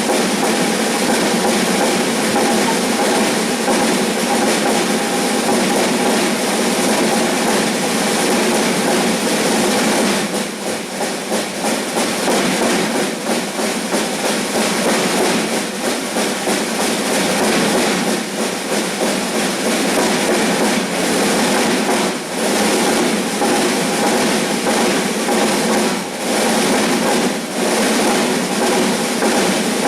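Drums playing a fast, steady pattern that imitates a train rolling along with its clickety-clack, easing briefly in a few places.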